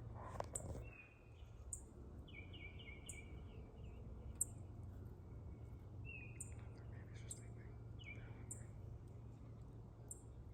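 Faint wild songbird calls, short phrases repeating every couple of seconds, with brief high chips about once a second, over a steady low hum. A brief rustle right at the start.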